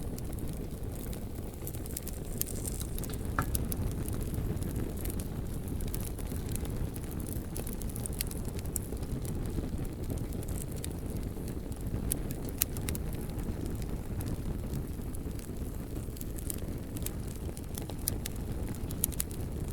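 Campfire burning, its wood crackling with frequent sharp snaps and pops over a steady low rumble.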